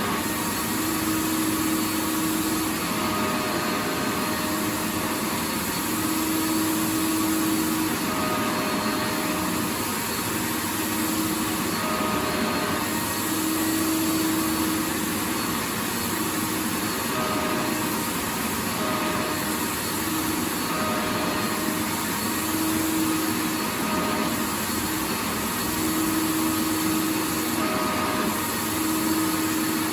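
Vacuum cleaner running continuously: a steady rush of air with a motor hum that fades in and out every second or two.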